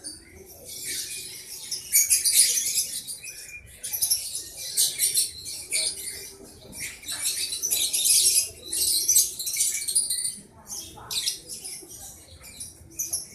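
Lovebirds chattering: a dense run of shrill, high squeaks and chirps that swells and drops back every second or so.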